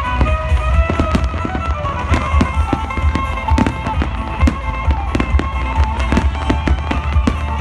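Fireworks display: a rapid, continuous run of sharp bangs and crackles over a deep rumble, with music playing over them.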